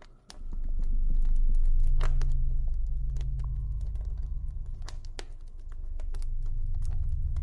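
Campfire crackling: irregular sharp pops and snaps over a continuous low rumble. The sound dips almost to nothing for a moment just after the start, then swells back.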